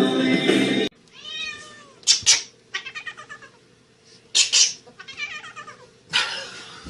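Domestic cat meowing repeatedly, a string of rising-and-falling calls broken up by short harsh bursts, after music cuts off about a second in.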